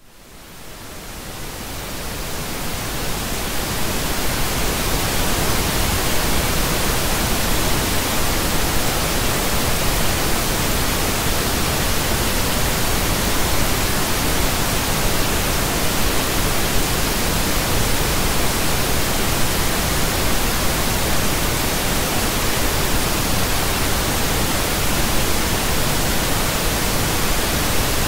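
Synthetic pink noise: an even, steady hiss across the whole range. It fades in from silence over the first few seconds, then holds constant.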